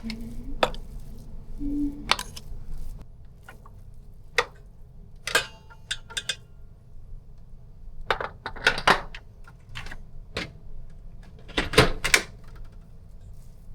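Irregular clicks and knocks of kitchen utensils against bowls, with a few clustered clatters, as minced chicken keema is emptied from a food processor into a bowl.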